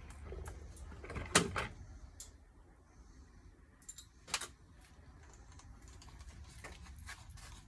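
Scattered light clicks and clinks of hand tools on metal parts while a washing machine is taken apart, with two sharper knocks, one about a second and a half in and the louder second one a few seconds later, over a low steady hum.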